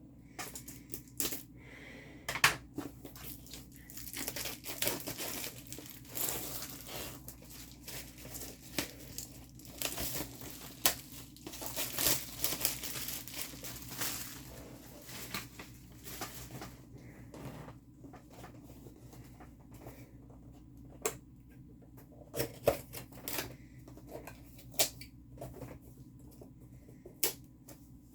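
Crinkly plastic packaging rustling and crumpling as a diamond painting kit is handled and unwrapped, with scattered sharp clicks and taps throughout.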